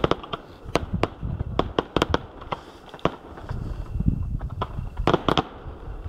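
Aerial fireworks shells bursting: a run of sharp bangs at uneven intervals over a low rumble, with a quick cluster of bangs about five seconds in.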